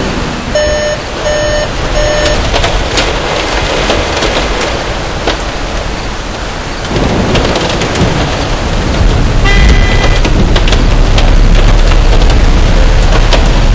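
Heavy rain and hail hitting a car, a dense loud hiss peppered with many sharp hits. A pitched ding repeats about twice a second for the first couple of seconds, and a deep rumble grows in over the second half.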